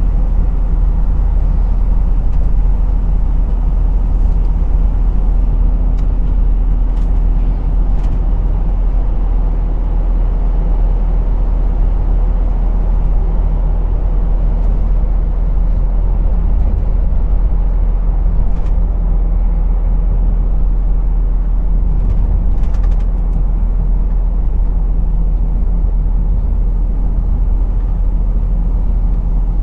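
A lorry's engine running steadily with a continuous low road rumble as it drives. A few short, faint hisses sound over it.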